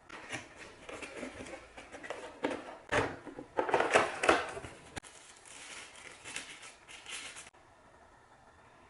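Irregular crinkling and clicking of something being handled, loudest in the middle, then cutting off suddenly about a second before the end.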